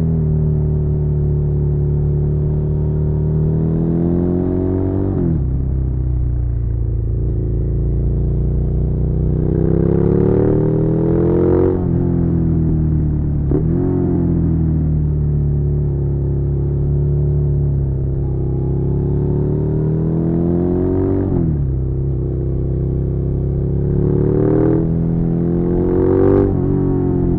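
Suzuki SV650's 645 cc V-twin engine pulling a motorcycle along a winding road, its note rising and falling with the throttle and breaking sharply half a dozen times at gear changes.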